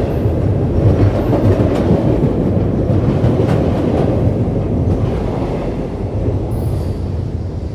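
Freight train rolling past close by, a steady heavy rumble with wheels clicking over the rail joints, easing off slightly near the end.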